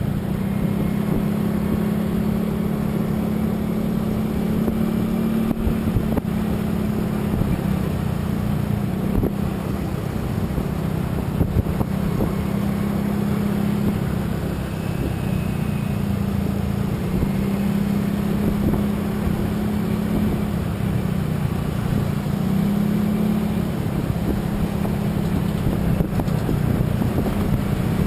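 Road vehicle travelling at a steady cruise: a constant engine hum with road and wind noise, the engine note shifting slightly a few times.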